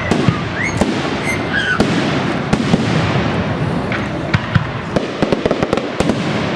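Fireworks display: a continuous din of shells and cakes bursting, with many sharp cracks and a rapid run of reports about five seconds in.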